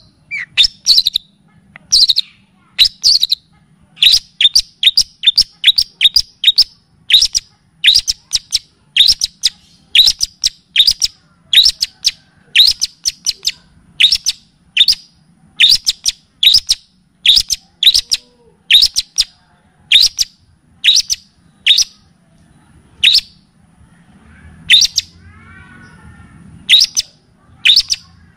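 Kapasan (triller) song in its rapid 'tembak' style: loud, sharp whistled notes, each falling quickly in pitch, repeated about one to two a second, played as a masteran recording for training a long-tailed shrike to copy. A faint, lower warbling bird sounds in the background about three quarters of the way through.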